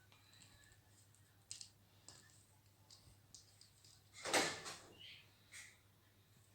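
Ringneck parrot playing with its toys: scattered light clicks and taps, with one louder clatter lasting about half a second, a little over four seconds in.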